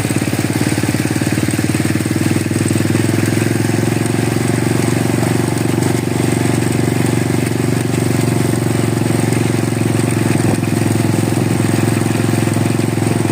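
Small two-stroke engine of a 49cc mini motocross bike running steadily at low speed, its note lifting slightly about three seconds in and then holding.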